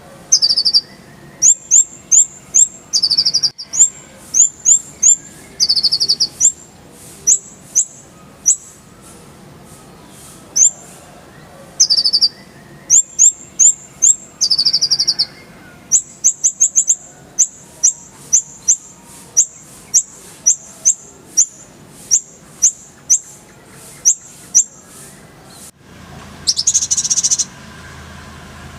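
Kolibri ninja sunbird singing: a fast series of short, high, sharp chirps with several quick rolling trills, and a longer buzzy burst near the end.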